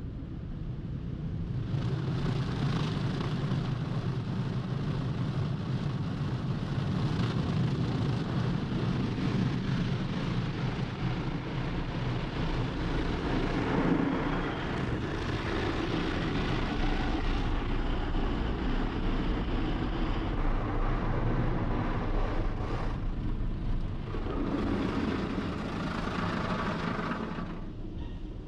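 Automatic car wash machinery running: a loud, steady rush of spraying water and blowing air over a low hum. It swells and eases, drops briefly about three-quarters of the way through, then surges again before fading near the end.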